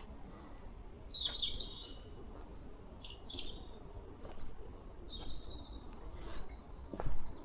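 Small songbirds chirping and singing in short, high trilled phrases, several in quick succession in the first half, over a few brief knocks.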